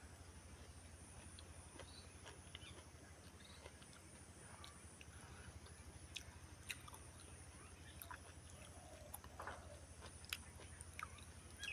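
Faint chewing of small cooked fish, mouth-close, with scattered small crunchy clicks.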